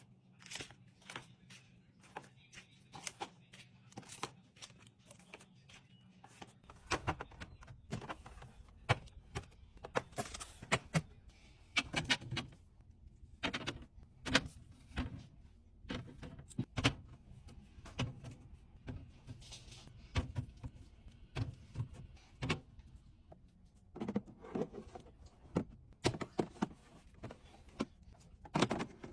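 A long, irregular run of light clicks, taps and knocks: food packages, containers and lids being handled and set down during a fridge and pantry restock. A low hum comes in about a quarter of the way through.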